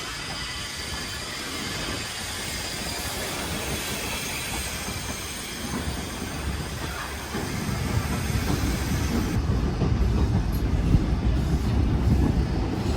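A train running on rails, with a rumble that grows louder over the last few seconds.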